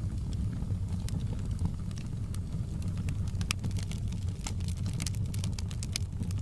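Wood fire crackling in a fireplace: a steady low rumble of flame with frequent sharp pops and snaps, coming thicker in the second half.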